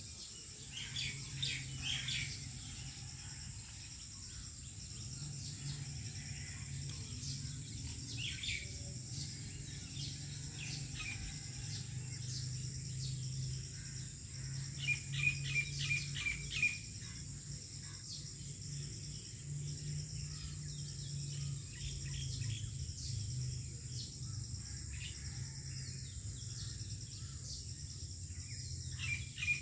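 Birds chirping in short scattered calls, with a quick run of about six chirps midway. Underneath runs a steady high-pitched insect drone and a low hum.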